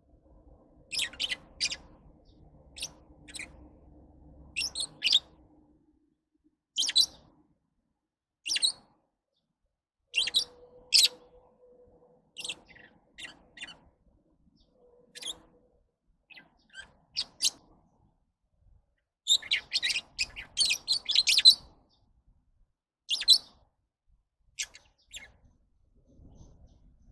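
Pet lovebirds chirping: short, shrill calls at irregular intervals, with a quick flurry of chirps about three-quarters of the way through.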